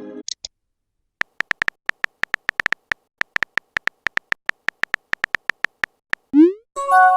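Electronic typing sound effect: a quick, irregular run of short high beeps, like letters appearing one by one on a chat screen. Near the end a short rising swoop is followed by a chime of several tones, a message-sent notification.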